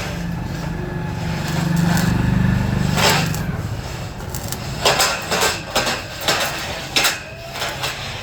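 A motor vehicle's engine drones for the first few seconds, then about eight sharp, irregular knocks on metal come in the second half, typical of hammering on a metal chair frame during repair work.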